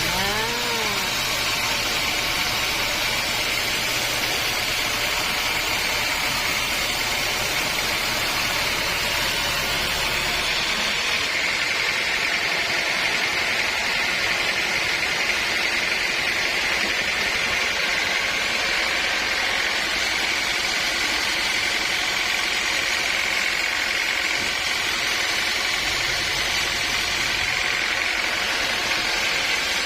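Sawmill machinery running steadily, a constant even noise. About ten seconds in, the deep rumble falls away and a higher hiss grows stronger.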